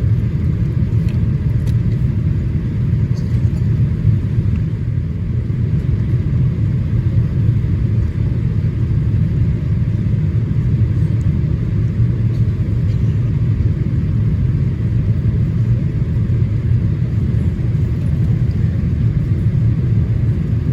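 Steady low rumble of engine and airflow noise inside the cabin of a Boeing 787-8 Dreamliner in flight on approach.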